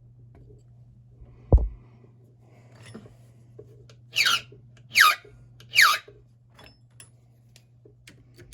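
A thump, then three file strokes a little under a second apart, each a short squealing rasp that falls in pitch: a key blank being filed down at a marked cut while impressioning a lock.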